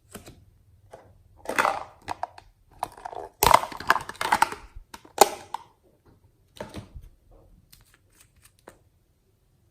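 Hands squishing and pressing slime together, in several bursts of sticky crackling and clicking, with quieter ticks near the end.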